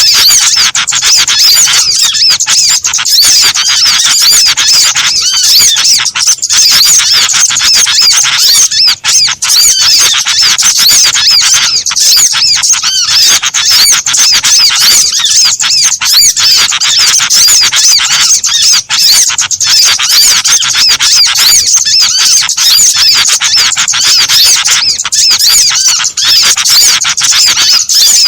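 Bird-lure recording of many small songbirds calling at once: a loud, dense, continuous chorus of rapid, high, overlapping chirps and twitters.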